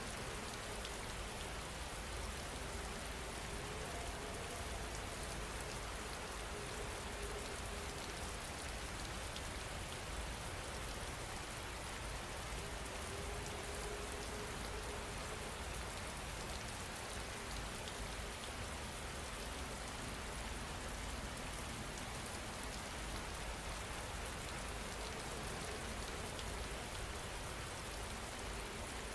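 Steady rain falling, an even continuous hiss with no change in level.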